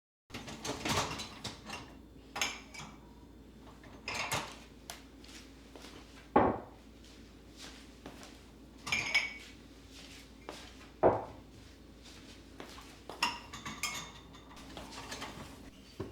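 Dishes and cutlery being handled and set down: a string of irregular clinks and knocks every second or two, some with a short ring.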